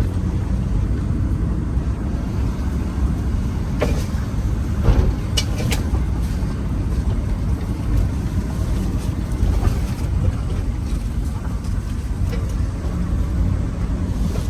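Off-road vehicle engine running steadily under a low rumble while driving, with a few short knocks and rattles about four to six seconds in and again near ten seconds.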